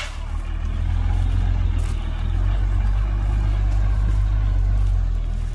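Heavy diesel engine of earthmoving machinery running with a deep, steady rumble that swells about a second in and eases slightly near the end. A sharp click at the start.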